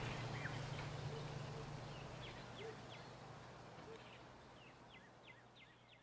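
Faint bird chirps, a string of short quick downward calls, over a low hiss that fades away.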